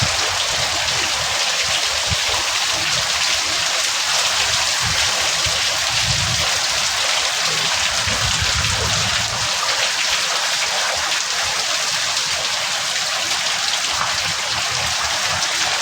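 Heavy rain pouring down steadily, a dense even hiss of drops on surfaces, with irregular low rumbling now and then.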